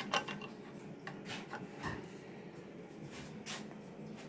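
Light handling of the belt and disc sander with its motor off: a few small clicks and knocks, with soft rubbing, as its table and fittings are moved by hand.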